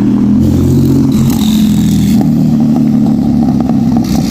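A performance car's engine and exhaust running loud and deep as the car pulls away, with a slight rise in revs about half a second in.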